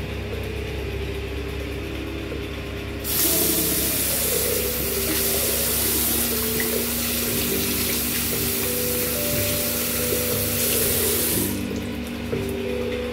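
Background music with steady held notes. From about three seconds in until near the end, a loud, even rush of running water, like a tap or shower, plays over it, starting and stopping abruptly.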